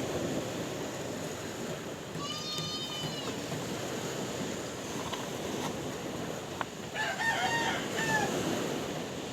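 Sea waves washing steadily, with animal calls laid over them: one pitched call of about a second, about two seconds in, and a second, wavering call about seven seconds in, with the sound of farm fowl.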